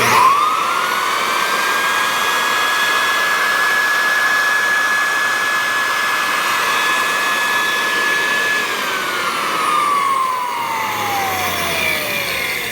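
Clarke Super 7R floor edger's electric motor switched on, spinning up within a second to a steady high whine over a rushing noise. About eight and a half seconds in it is switched off and winds down, the whine falling steadily in pitch.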